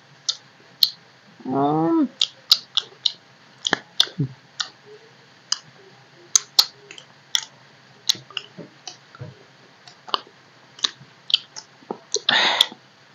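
Close mouth sounds of people eating soft, wet rice by hand: repeated sharp smacking and clicking of chewing lips. A short hum of a voice comes about one and a half seconds in, and a brief louder rush of noise near the end.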